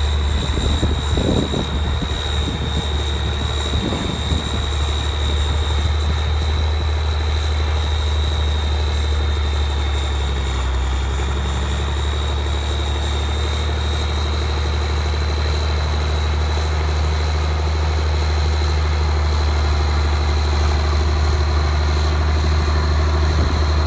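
1975 International Harvester 4366 four-wheel-drive tractor's six-cylinder turbo diesel running at a steady idle, with a steady high-pitched whine over the low engine hum.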